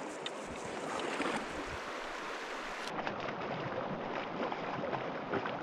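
River water rushing steadily, with a few small splashes and ticks.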